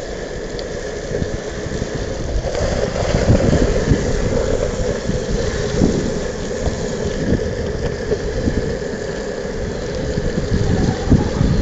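Longboard wheels rolling on wet pavement, a steady hiss, with wind buffeting the microphone in irregular low rumbles.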